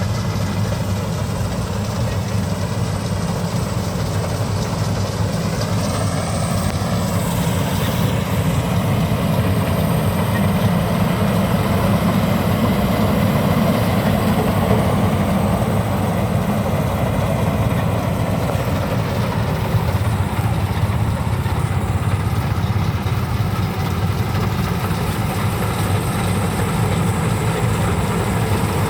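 Maxxi Bimo 102 rice combine harvester's diesel engine running steadily with a heavy low drone, getting slightly louder after about eight seconds.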